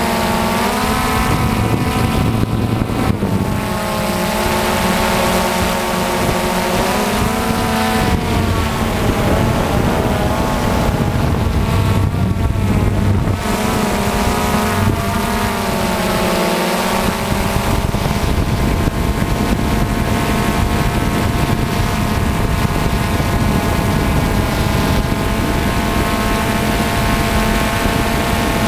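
DJI Phantom FC40 quadcopter's motors and propellers whining in flight, the pitch dipping and rising several times as the throttle changes, with wind rushing over the microphone.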